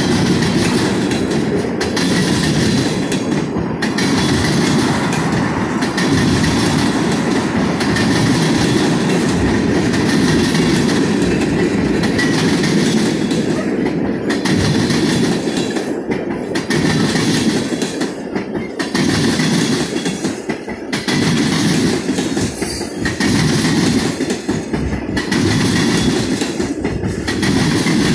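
Freight train of tank cars rolling past: a steady, loud rumble of steel wheels on rail, with a regular beat every second or two as the cars go by.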